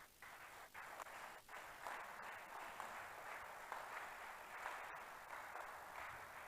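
Faint, muffled crowd noise from a church congregation, with scattered clapping.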